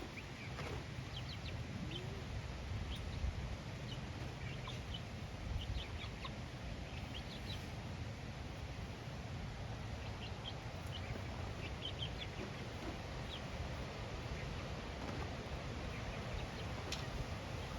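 Chickens clucking, with many short high chirps scattered throughout, over a steady low rumble.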